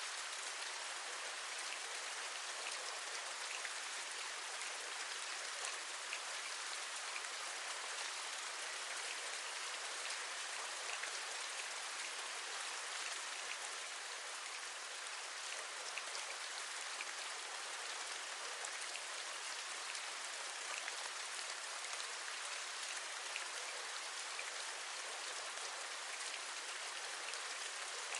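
Steady rain, a dense even hiss speckled with many small drop taps.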